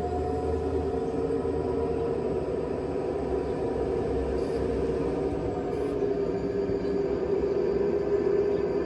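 Model train running steadily: a continuous low rumble with a steady droning tone, as from a sound-equipped model locomotive pulling a string of tank cars.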